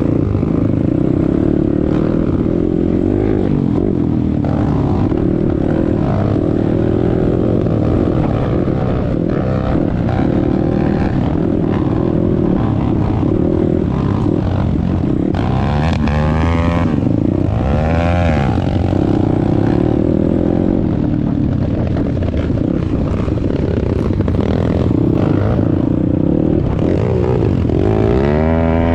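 Single-cylinder four-stroke engine of a YCF Bigy 190 Daytona pit bike running under riding load, a steady drone with the revs climbing and dropping about halfway through, again a couple of seconds later, and once more near the end.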